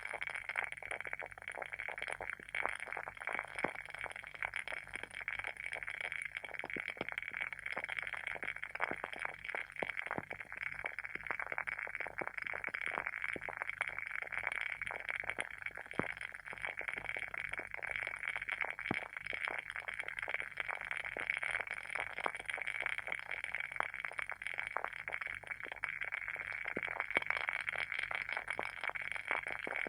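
Wooden wick of a WoodWick candle burning with a steady, dense crackle of many tiny pops, like a small wood fire.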